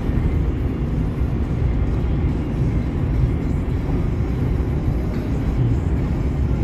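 Steady low road and engine rumble inside the cab of a vehicle travelling at highway speed.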